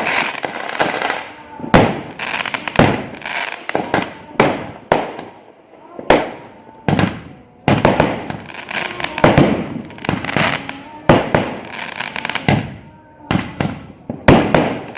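Fireworks going off in an irregular string of sharp bangs, about one a second and sometimes two in quick succession. Each bang trails off in an echoing crackle.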